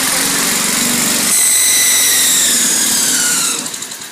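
Old lawn mower's small engine running after long disuse, with a high whine that slowly falls in pitch from about a second in; the sound drops away suddenly near the end.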